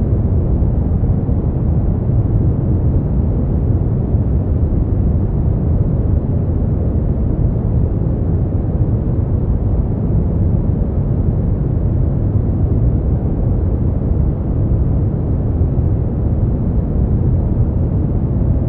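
Brown noise: a steady, deep rushing hiss with most of its weight in the low end and little above the midrange, unchanging throughout.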